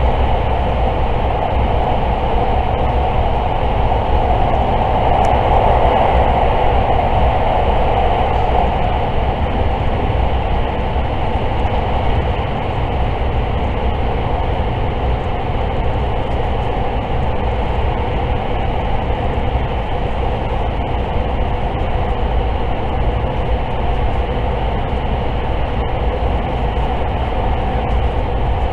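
Limited express electric train running at speed, heard from inside the passenger car: a steady rumble and roar of wheels on rail that swells slightly for a few seconds a little after the start.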